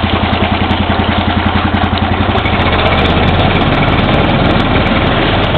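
2003 Briggs & Stratton 5 HP outboard's single-cylinder four-stroke flathead engine idling steadily, exhausting through its muffler in the air, with its propeller turning water in a test tank. About three seconds in the engine note shifts slightly and gets a little louder.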